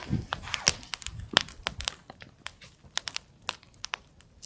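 Wood campfire crackling, with irregular sharp snaps and pops, busier in the first couple of seconds.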